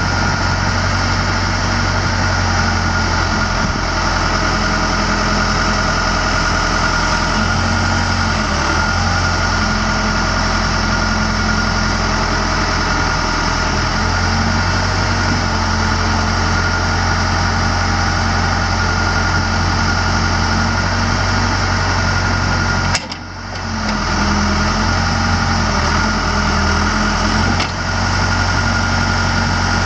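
Case 580L backhoe's Case 4-390 four-cylinder diesel engine running steadily, broken briefly by a sudden drop about three-quarters of the way through.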